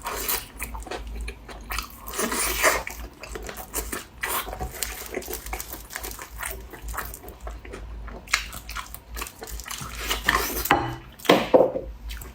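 Close-miked biting and chewing of a small chicken drumstick: irregular bites and mouth clicks, with a louder bite at about eleven seconds.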